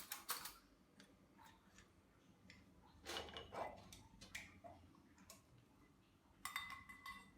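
Quiet, scattered clinks and knocks of kitchenware being handled, with a short ringing clink near the end.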